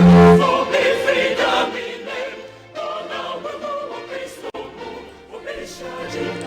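Music with a choir singing, a loud low note at the very start.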